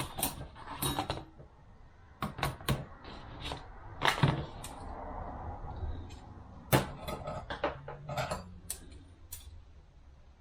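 42RE transmission clutch friction discs and steel plates being handled and set down on a workbench: irregular clicks and knocks, the loudest about four and seven seconds in.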